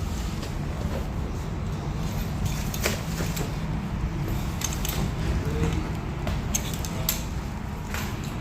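Steady low rumble of a ferry's engines, with a few sharp clicks and clanks over it.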